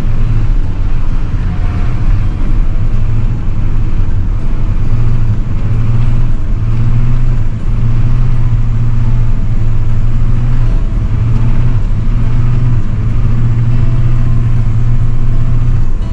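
Snow plow truck's engine running steadily as a loud, low drone that dips briefly now and then.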